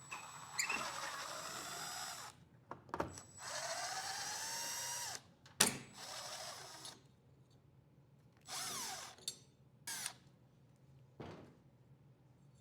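Power drill running in bursts, its motor whine rising and falling with the trigger: two runs of about two seconds each, then a few shorter bursts. A sharp click comes about halfway through.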